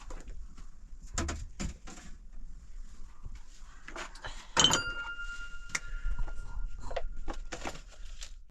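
Handling noises: a few knocks and clatters, then a sharp clank about halfway through whose ringing tone carries on for about two seconds, like a struck metal object.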